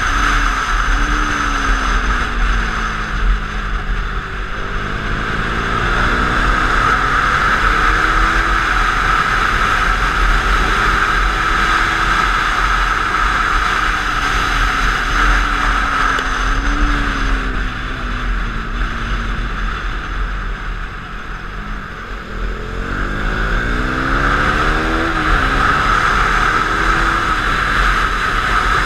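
KTM 390's single-cylinder engine at track speed, climbing in pitch through the gears three times and falling back as the bike slows for corners, under a steady rush of wind.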